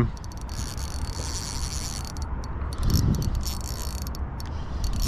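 Fishing reel clicking and whirring in several stretches of about a second each while a hooked bream is fought.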